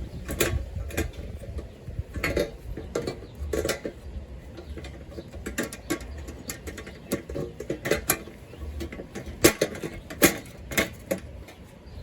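Irregular clanks and clicks of thin metal raised-garden-bed panels and their no-tool connectors being handled and slotted together.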